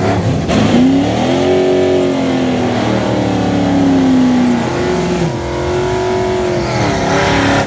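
Drag car's engine at full throttle down the strip: its note climbs, sags slowly, drops sharply at a gear change about four and a half seconds in, then climbs again.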